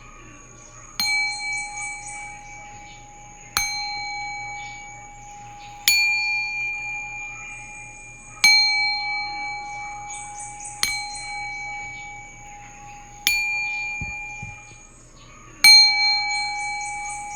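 A singing bowl struck seven times at an even pace, about once every two and a half seconds. Each strike gives the same ringing tone, which fades slowly until the next strike.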